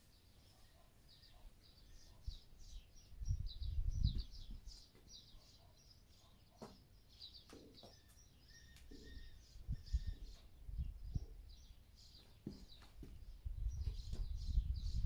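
Small birds chirping steadily in quick, repeated high notes, with low rumbling thumps about three to four seconds in and again near the end.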